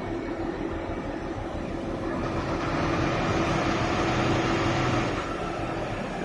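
Floating crane's machinery running with a steady low drone. It swells louder and hissier for a few seconds around the middle, then eases back.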